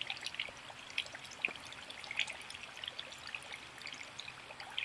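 Faint trickling water with many small scattered drips.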